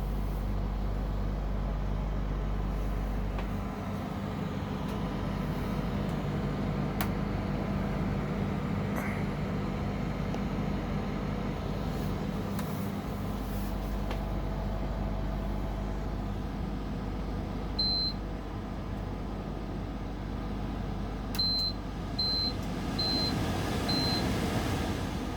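Dometic Freshjet 3200 rooftop air conditioner running, its compressor giving a steady low hum and drone that is very noisy, far from what the owner would call normal operation. A short high beep sounds about 18 seconds in, and four more near the end.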